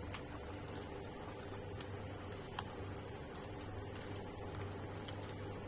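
Someone chewing mouthfuls of pineapple and mango, with soft wet mouth sounds and a few faint clicks of a plastic spoon against a plastic bowl, over a steady low hum.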